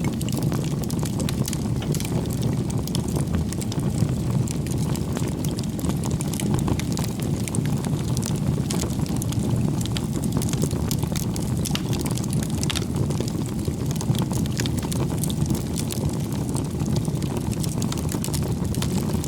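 Bonfire of firewood burning: a steady low roar of the flames with frequent small, irregular crackles and pops from the wood.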